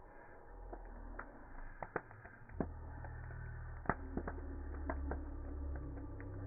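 Bonfire burning: wood crackling with sharp, irregular pops, the loudest about four seconds in, over a low steady rumble.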